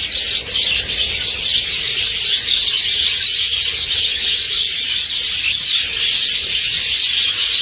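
Large flock of budgerigars chattering continuously, a dense, high-pitched mass of overlapping calls.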